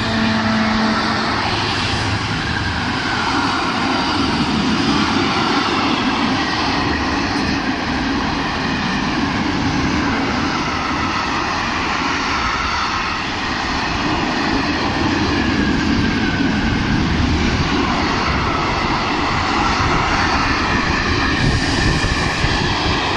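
A train running past at close range: a loud, steady rumble and rush with faint whines that slide in pitch.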